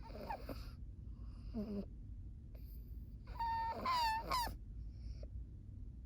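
A sleeping pug snoring, with short breathy noises and then a loud, high, wavering whine lasting about a second a little past halfway.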